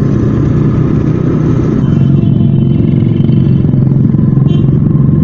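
A Yamaha Vixion's 150 cc single-cylinder engine running as the motorcycle is ridden along, getting somewhat louder about two seconds in.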